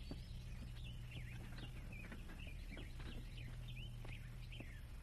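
Faint birds chirping: many short, quick chirps that fall in pitch, scattered throughout, over a low steady hum.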